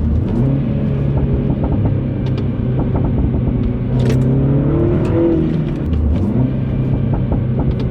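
F56 Mini Cooper S's turbocharged four-cylinder engine running on the move through a cheap aftermarket full exhaust system. The note climbs about halfway through and dips about six seconds in, with scattered short exhaust pops.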